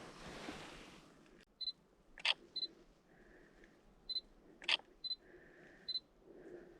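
Digital camera taking photos: short high beeps as the autofocus locks, two sharp shutter clicks about two and a half seconds apart, and brief faint whirs of the lens focusing between them. The first second and a half holds a soft rustling before it drops quieter.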